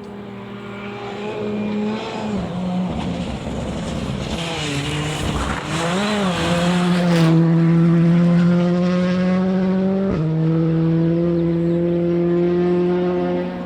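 Rally car at speed on a gravel forest stage: the engine note wavers up and down while tyre and gravel noise swells mid-way, then the engine holds a steady, loud note at high revs, broken briefly about ten seconds in.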